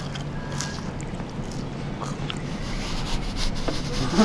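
A person chewing a mouthful of topped fries close to the microphone, with small scattered crunching clicks over a steady low background rumble.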